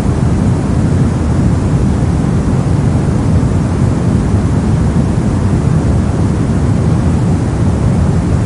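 Brown noise: a steady, deep, even rushing hiss with its weight in the low end, unchanging throughout.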